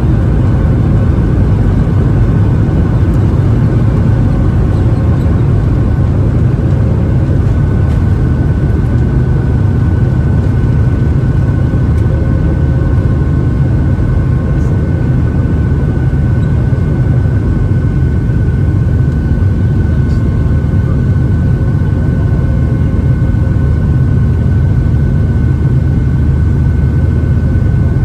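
Cabin noise inside a Boeing 737-700 airliner in flight: the steady low rumble and rush of its CFM56-7B turbofan engines and the airflow past the fuselage, with a thin, steady whine from the engines.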